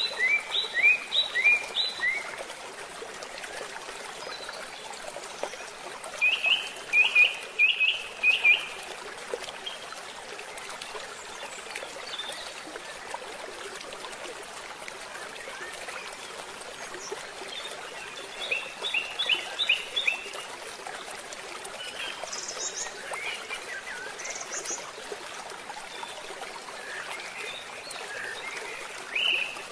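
A bird singing short phrases of four or five quick, sharp chirps, repeated about every ten seconds, over a steady hiss.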